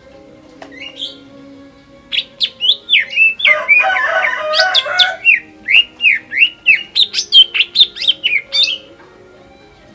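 Green leafbird (cucak ijo) singing an excited song: a fast run of loud, sharp sweeping whistled notes, about four a second, with a dense chattering burst in the middle. It starts about two seconds in and breaks off about a second before the end.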